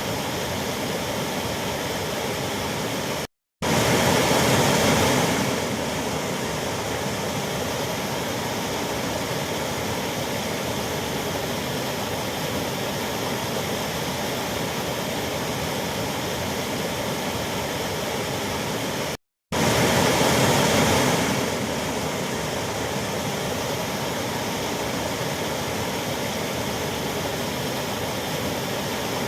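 Waterfall rushing: a steady, even roar of falling water. It cuts out to silence for a split second twice, about 3 and 19 seconds in, and comes back a little louder for about two seconds each time.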